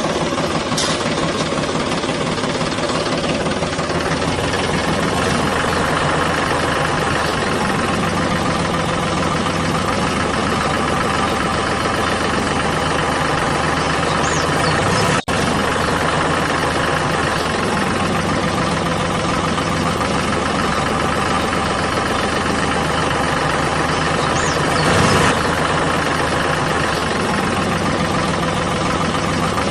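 Mini model tractor's motor running steadily, cut off sharply about halfway through and straight back, and briefly louder near the end.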